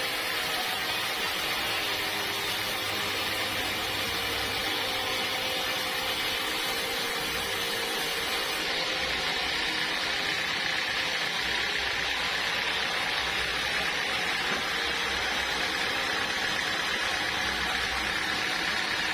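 Sawmill band saw running steadily: a continuous, even machine hiss with no breaks or changes.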